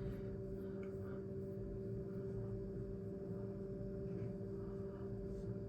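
A steady hum of a few held tones, unchanging throughout.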